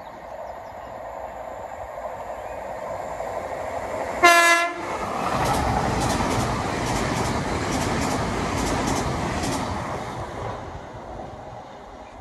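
Passenger train approaching at speed and sounding one short horn blast on a single note about four seconds in. It then passes with a rhythmic clatter of wheels over the rail joints before fading away.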